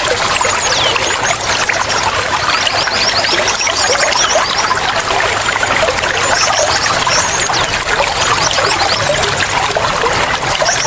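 Flowing water trickling steadily, with small birds chirping over it in quick runs of short, high notes.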